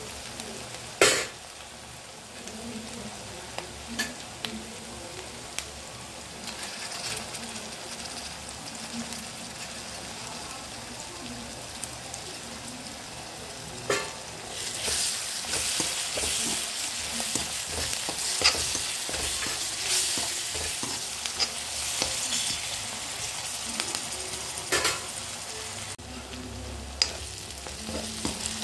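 Chopped onions sizzling as they fry in oil in a pan, with a metal spatula stirring them and knocking the pan in a few sharp clicks, the loudest about a second in. The sizzle grows louder about halfway through, as paste and chopped herbs go into the hot oil, and eases again near the end.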